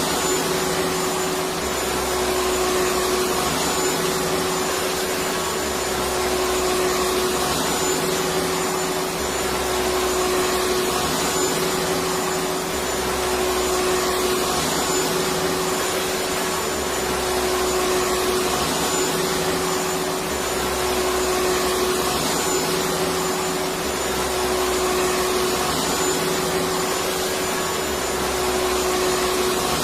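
Electric vacuum cleaner running continuously: a steady whooshing whir with a constant drone, swelling slightly about every two seconds.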